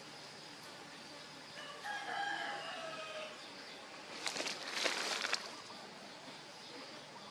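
One long, drawn-out animal call with several overtones, sliding slightly down in pitch, then a louder burst of scratchy rustling about four seconds in.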